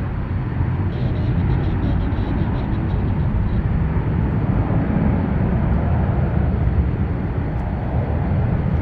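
Airliner engines running, a steady loud noise that swells slightly in the middle.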